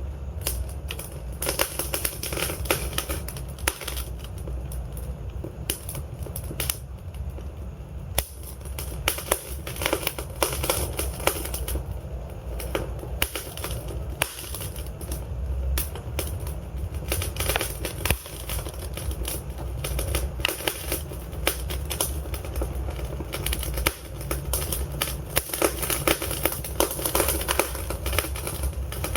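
Burning logs in a fireplace, crackling and popping in quick, irregular clicks over a steady low rumble from the fire.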